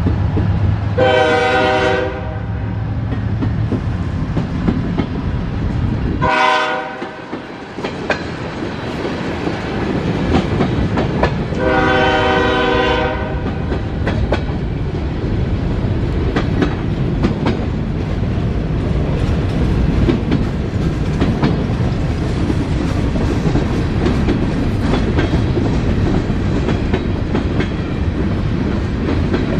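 Norfolk Southern train rolling past with a steady rumble and wheel clatter over the rails, its horn sounding three times: a blast about a second long, a short one a few seconds later, then a longer one near the middle.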